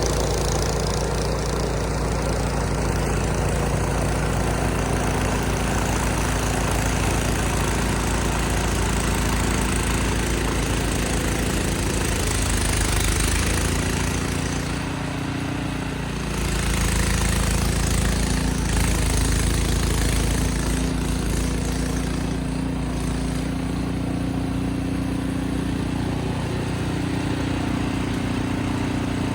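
Ariens snow blower's gas engine running steadily while clearing snow. It dips briefly about halfway through, then comes back louder for a few seconds.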